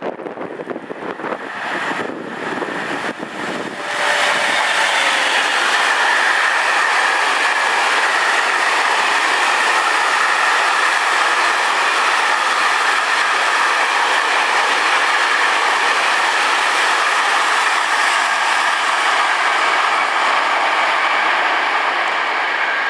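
Wind buffets the microphone at first. About four seconds in, a freight train of cereal hopper wagons suddenly arrives alongside and rolls past at speed, with a loud, steady wheel-on-rail noise, a ringing whine and a clickety-clack of the wagons over the rail joints.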